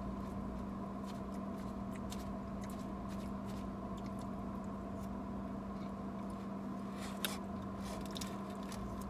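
Quiet chewing and crunching of salad with scattered small clicks, the sharpest about seven seconds in, over a steady low hum in a car's cabin.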